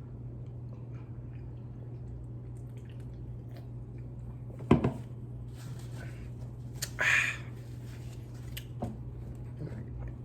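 Small eating and drinking noises close to the microphone over a steady low hum: a sharp knock a little under five seconds in, a short wet slurp around seven seconds in, and a few faint clicks.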